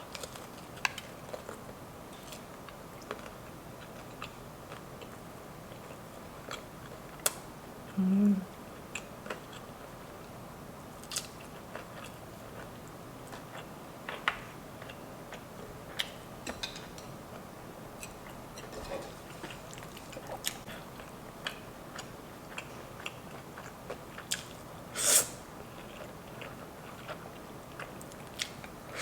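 Close-miked eating: chewing and biting into a ranch-dipped boneless chicken wing, with scattered short wet mouth clicks. A brief low hum comes about eight seconds in, and a louder chewing burst near the end.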